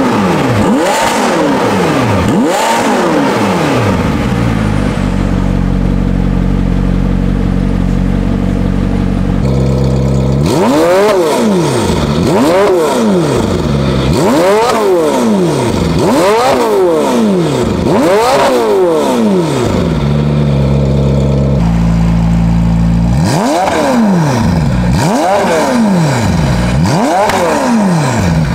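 McLaren 720S twin-turbo 4.0-litre V8 with catless downpipes and its exhaust valves open, revved at standstill in quick blips that each rise and fall in about two seconds. The blips come in groups of several, with the engine settling back to a steady idle between groups.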